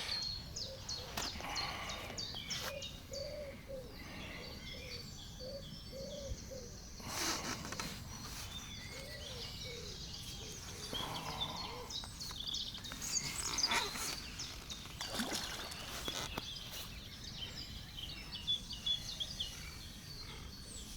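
Outdoor birdsong: scattered high chirps and short, low cooing notes repeated at intervals, over a steady background hiss, with a few faint knocks.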